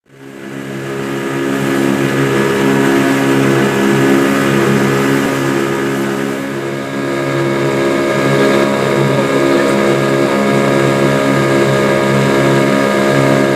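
An engine running at a steady speed, a droning hum that fades in over the first second or two.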